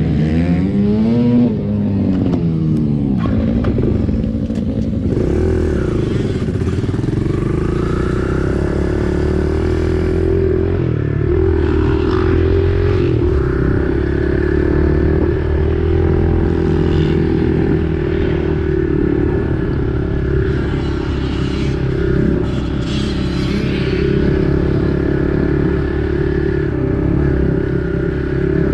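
Kawasaki KLX110 pit bike's small four-stroke single-cylinder engine running under riding. It revs up and back down in the first couple of seconds, then holds a fairly steady pitch with small rises and dips as the throttle changes.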